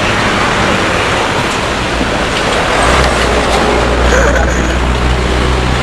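Steady background vehicle noise with a low engine drone that grows stronger about three seconds in.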